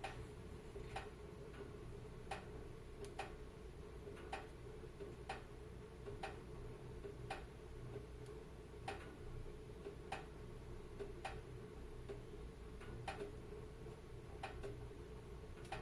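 Wood fire crackling in a fireplace: sharp, irregular pops about once a second over a low, steady rumble of the burning logs.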